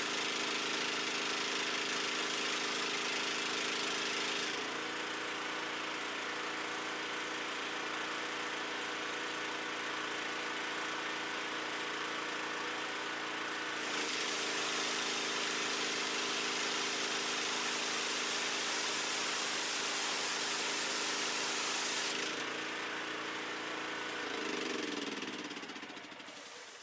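Pressure washer engine running steadily under the hiss of the spray, which is louder for the first few seconds and again for a stretch in the middle. Near the end the engine slows down and stops.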